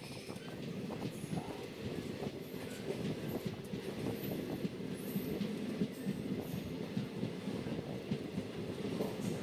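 Passenger express train running on the rails: a steady, dense rumble of wheels on track, with a few faint high squeals from the wheels.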